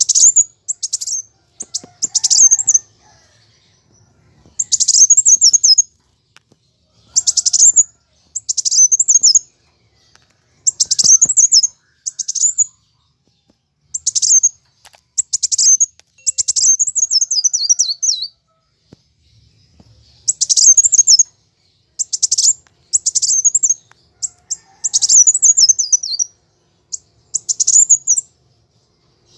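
Kolibri wulung (a sunbird) giving loud, high-pitched chattering phrases in short bursts of one to two seconds, with short pauses between, some phrases sliding downward at the end. This is its aggressive 'fighting' calling, used to provoke other birds of its kind into song.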